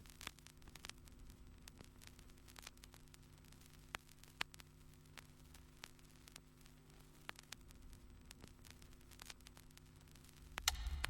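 Faint steady electrical hum with scattered soft clicks and crackle, close to silence. A louder sound starts just before the end.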